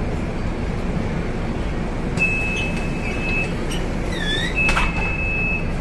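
Scania K250UB city bus running, heard from inside: a steady low engine and road rumble. Two long, even high beeps sound, one about two seconds in and one near the end, with a brief curved squeak and a click between them.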